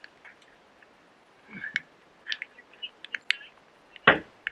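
Scattered light clicks and knocks, with one heavier thump about four seconds in.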